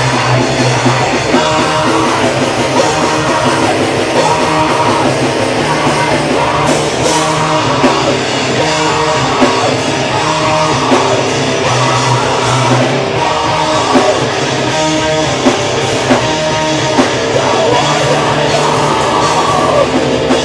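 Live heavy rock band playing loud: distorted electric guitars and pounding drums, with vocals over them.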